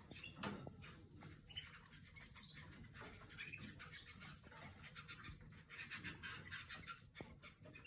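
Canaries in their cages: faint high chirps, with many light clicks and scratches as the birds move about.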